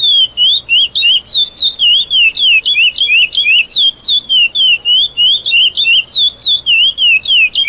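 Curió (chestnut-bellied seed-finch) singing the 'praia clássico' song: a long unbroken run of clear whistled notes, about three to four a second, most of them sliding down in pitch.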